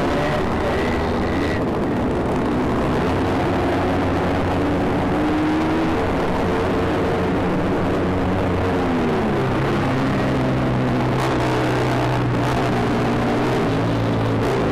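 Two-stroke Yamaha RX motorcycle engine running on the move, its revs rising and falling, with the engines of other motorcycles riding alongside.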